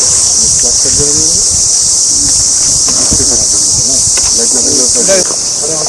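A loud, steady chorus of insects, a continuous high-pitched shrill with no break or rhythm, with faint voices underneath.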